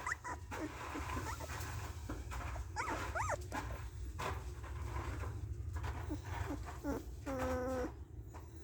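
Caravan hound puppy whimpering: short high whines that rise and fall, then a longer, lower whine about seven seconds in. A few light knocks and a steady low rumble lie underneath.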